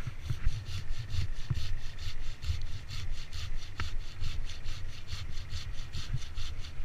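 Hand saw cutting through wood with quick, regular back-and-forth strokes, about four a second.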